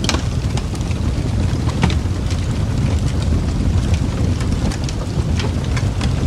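Wood fire burning: a steady low rumble with scattered sharp crackles and pops, the sharpest right at the start and another about two seconds in.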